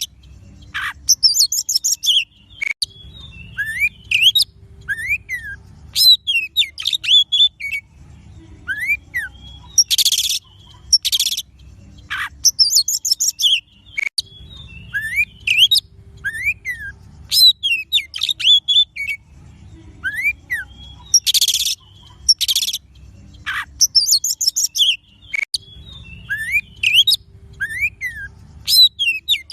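Oriental magpie-robin (kacer) singing a loud, varied song. Short whistled notes slide up and down, mixed with harsh rasping bursts, in quick phrases that repeat every second or so.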